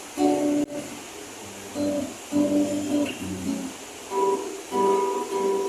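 Acoustic guitar playing the intro of a song, several strummed chords with short pauses between them.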